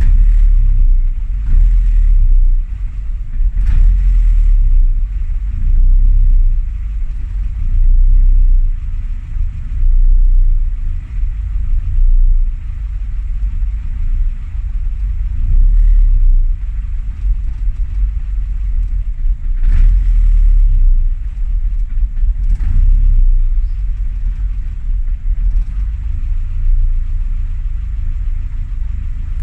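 Classic Mini's A-series engine running, a low rumble that swells and falls every couple of seconds.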